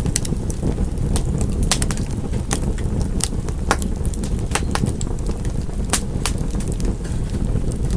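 Wood fire crackling: a steady low rumble of flame under frequent sharp pops and snaps at irregular intervals.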